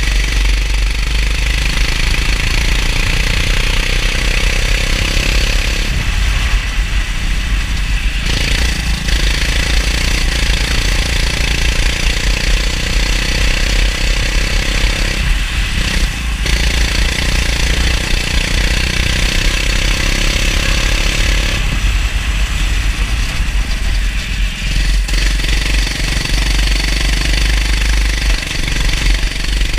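Go-kart engine running hard at speed, its note falling away briefly three times (about six, fifteen and twenty-two seconds in) before pulling again, over a steady hiss and a low rumble.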